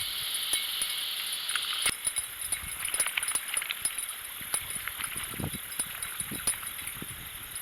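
Fishing reel and rod being worked, irregular clicking and ticking with a few dull knocks. A steady high hiss cuts off about two seconds in.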